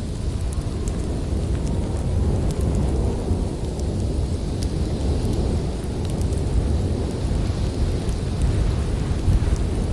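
Storm wind blowing in a deep, steady rumble that swells and eases slightly, with scattered sharp crackles and pops from a wood fire.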